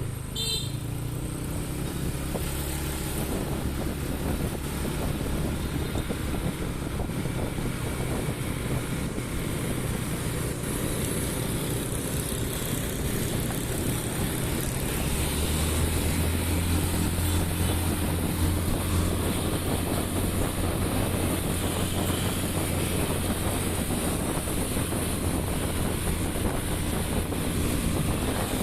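Motorbike engine running steadily while riding, with wind noise on the microphone. The engine hum grows louder about halfway through.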